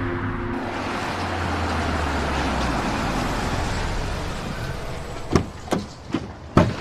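Car running along the road with a steady hum that slowly fades. Four or five short sharp knocks follow in the last second and a half.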